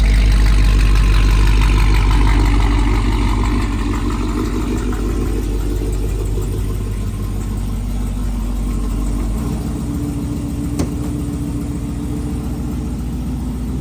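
Hemi V8 car engine running with a steady low rumble. It is loudest for the first few seconds, then settles to a slightly quieter, even run, with a single sharp click about eleven seconds in.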